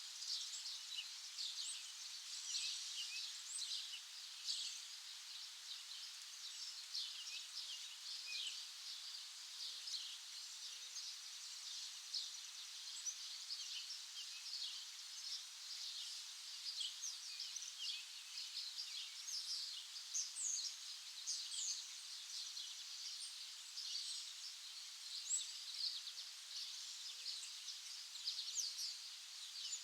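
Many small birds chirping at once, a busy, unbroken chorus of short high calls and quick trills.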